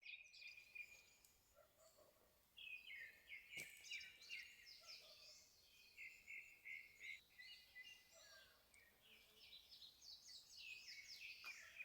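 Faint birdsong: many short chirps and trills from several birds, with a lull about a second in and a single click a few seconds in.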